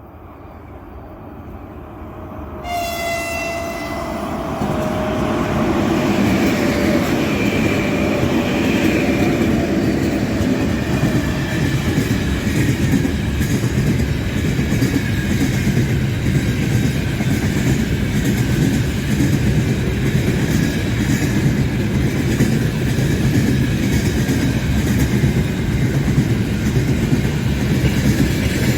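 A freight train behind a 4ES5K 'Ermak' electric locomotive approaches and runs past. The locomotive's horn sounds with a single pitched note about three seconds in. From about five seconds on comes the loud, steady rumble of the wagons rolling by, with wheel clickety-clack and a faint high ringing above it.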